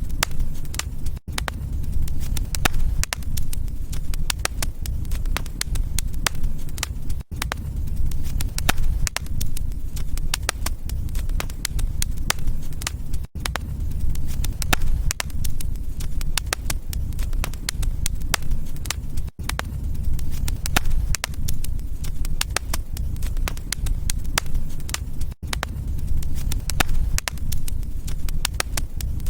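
Wood fire burning in a fireplace: dense crackling over a low steady rumble. A brief drop-out comes about every six seconds.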